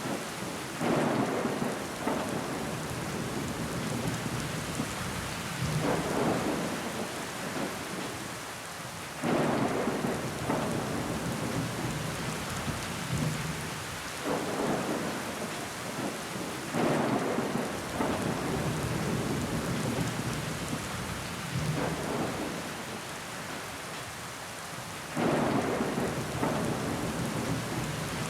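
Steady rain falling on window glass, with sudden louder swells every few seconds that fade away again.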